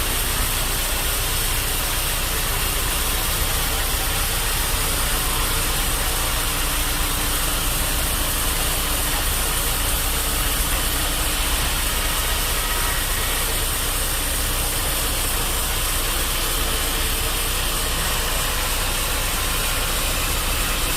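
Bandsaw sawmill machinery running steadily: a constant engine-like hum with a hiss, even in level throughout.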